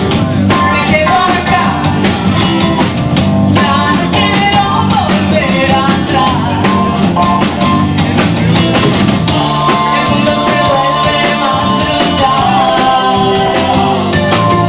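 Rock band playing live: drum kit, bass, electric guitar and keyboards under a singer's voice. About nine seconds in, the drums move to a busier, denser cymbal beat.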